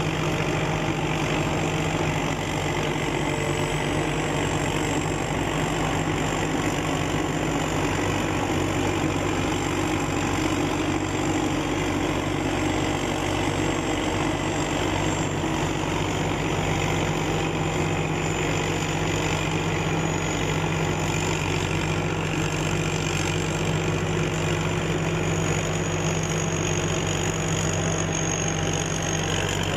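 SS-200 A rice combine harvester's engine running steadily at an even speed, with a thin, steady high whine above the engine hum.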